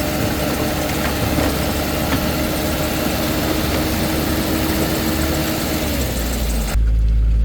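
Diesel engine of heavy construction machinery running steadily, with a steady whine over it. Near the end the sound switches suddenly to a louder deep rumble with the higher sounds gone.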